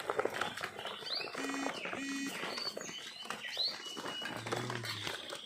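Racing pigeons cooing in short low hums, mixed with many brief high bird chirps and light rustling clicks.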